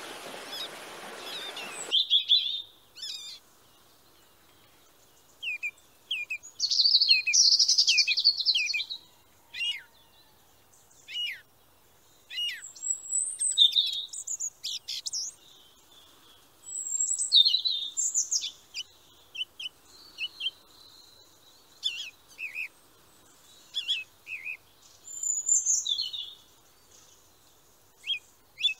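Songbirds singing and calling: bursts of short, high chirps and whistled notes separated by brief pauses, with a run of quick repeated notes near the end. A different, noisy sound cuts off abruptly about two seconds in.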